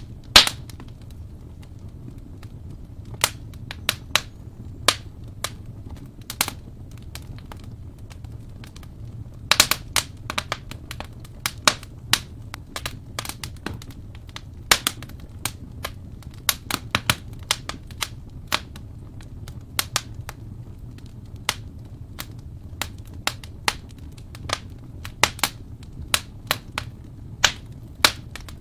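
Wood fire crackling: irregular sharp pops and snaps, sometimes in quick clusters, over a steady low rumble of the burning.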